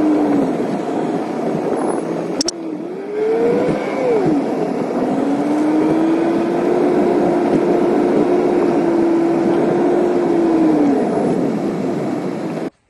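A motor vehicle engine running under steady road noise. Its pitch rises and falls once, then holds steady for several seconds. The sound cuts off suddenly near the end.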